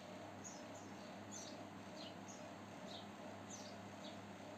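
Small bird chirping faintly in the background: short high chirps that fall in pitch, about two a second, over a steady low hum.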